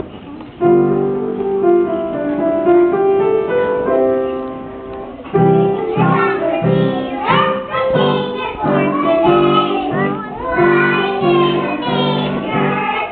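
Piano accompaniment plays a short introduction. About five seconds in, a group of young children begins singing along with it, the piano keeping a steady chordal rhythm underneath.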